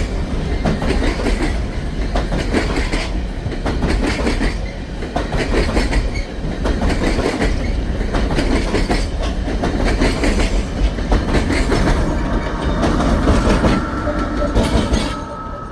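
Empty coal train rolling past at close range: wheels clacking over rail joints in a quick, irregular rattle of cars over a heavy rumble. A thin, steady wheel squeal comes in near the end, and the sound falls away sharply just before it stops.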